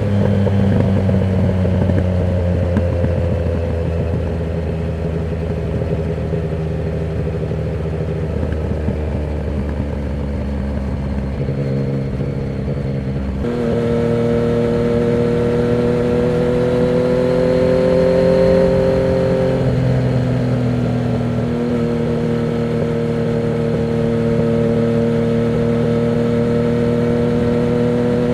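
Yamaha MT-09's inline three-cylinder engine running through a Termignoni exhaust with the dB killer removed, on the move. The note sags gently for the first half, changes suddenly about halfway through, then pulls steadily with a brief dip about two-thirds of the way in.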